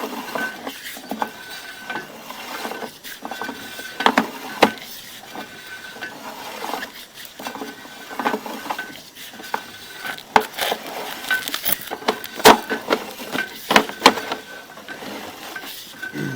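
Drain inspection camera and its push rod knocking and clattering against the sewer pipe as it is fed along, in irregular clicks and knocks, with a faint tone that comes and goes.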